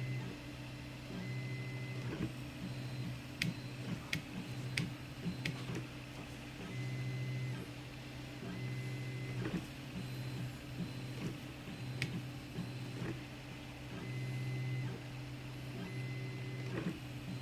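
Zonestar P802M 3D printer at work: its stepper motors hum and whine in stretches of about a second that start and stop as the print head moves. A few sharp clicks come through, several close together a few seconds in and one more near the middle.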